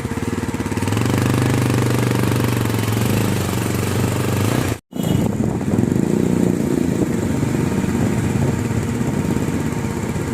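Motorcycle engine running while riding, under heavy wind noise on the microphone. The sound cuts out for an instant about five seconds in, then carries on.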